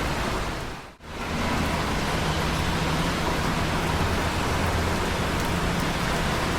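Steady rain falling, an even hiss, which fades out to near silence for a moment about a second in and swells back, as at the joint of a looped recording. A steady low rumble sits under the rain.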